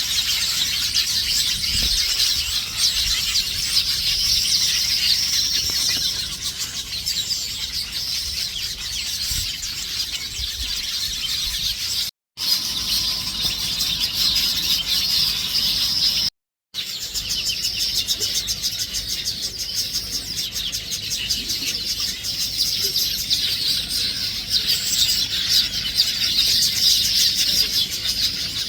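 A dense chorus of many small birds chirping and twittering continuously in high, rapid calls, broken off for a moment twice.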